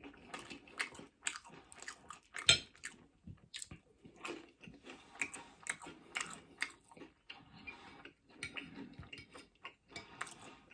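Close-miked chewing and crunching of takeaway food in short, irregular bites, with a metal fork tapping and scraping on a ceramic plate.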